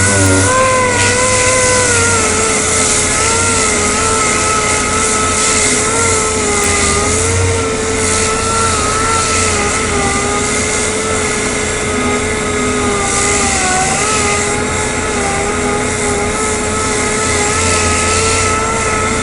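A power sander runs steadily against the plastic bumper cover, smoothing the epoxy repair. Its pitch wavers a little as it is pressed and moved, over a steady hiss.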